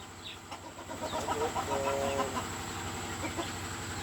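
Soft clucks and short chirps from a mimicking bird, with a brief steady two-tone whistle about two seconds in.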